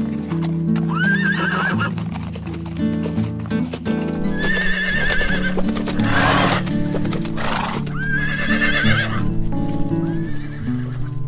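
Horse whinnying four times over steady acoustic guitar music, each call a high, wavering neigh, with two short breathy blasts between the middle calls.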